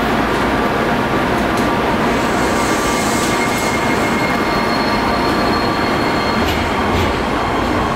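A train running on the rails with a steady loud rumble and rail noise. Thin wheel squeals come and go in the middle, and there are a few sharp clicks near the end.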